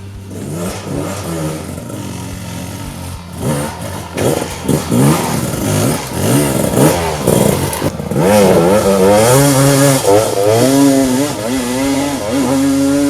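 2018 Gas Gas EC300's two-stroke engine revving, its pitch rising and falling sharply several times, then held higher and wavering through the second half.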